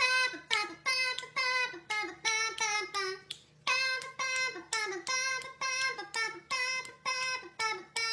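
A high-pitched voice singing a string of short notes, about two a second, most of them dropping in pitch at the end, with one brief pause partway through.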